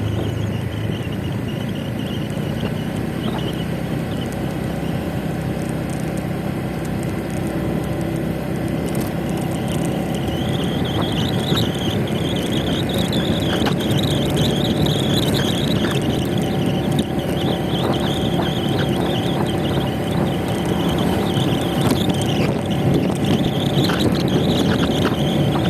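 Motor scooter engine running steadily while riding, with wind and road noise; the sound gets a little louder about ten seconds in.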